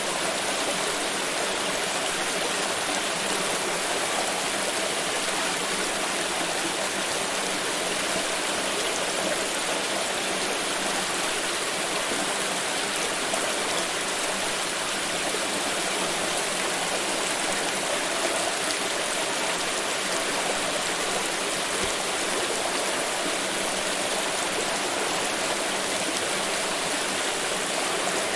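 Water pouring and splashing in a steady, even rush that holds the same level throughout.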